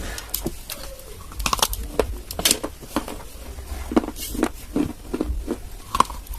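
Dry clay being bitten and chewed close to the microphone: a string of crisp, irregular crunches, about two a second.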